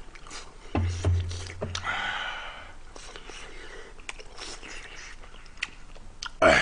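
A person eating: chewing with scattered light clicks and a short breathy noise about two seconds in, then a brief louder sound near the end.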